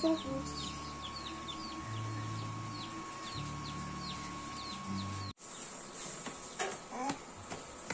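Birds chirping: short, high, falling chirps repeated two or three times a second over a low hum, which stop abruptly about five seconds in, leaving a few faint knocks.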